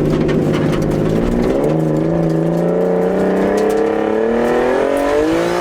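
Turbocharged RB20DET 2.0-litre straight-six in a Nissan 240SX under acceleration: the engine note holds steady, breaks off briefly about a second and a half in, then climbs steadily in pitch.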